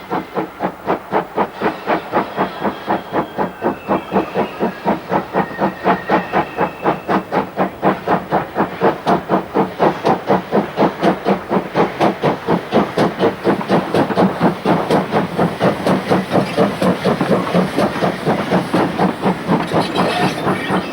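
Steam locomotive working under power, its exhaust beating in a rapid, even rhythm with steam hiss and wheels on the rails.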